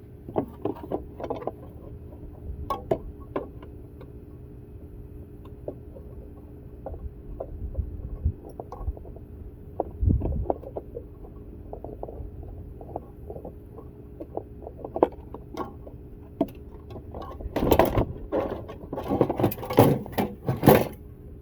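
Scattered knocks and clanks of metal parts and tools as a window air conditioner is taken apart for scrap, over a steady low hum, with a dense run of clattering near the end.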